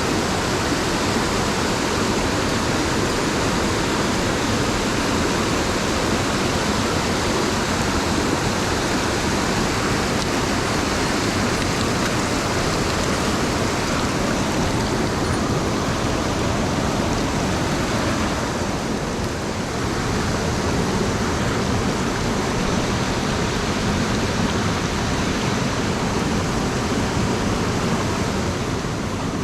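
Steady rush of a mountain headwater stream running over rocks.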